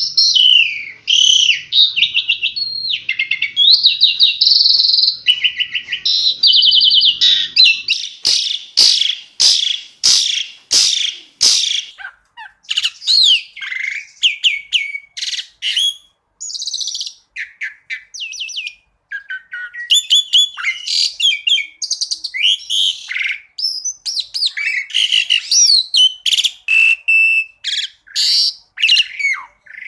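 Asian pied starling (jalak suren) singing a long, varied song of whistles and fast trills, with a run of sharp clicking notes from about 8 to 12 seconds in.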